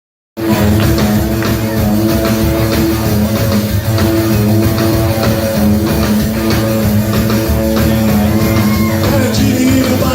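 Rockabilly band playing the instrumental intro of a song, guitar to the fore over a steady beat, starting abruptly just under half a second in.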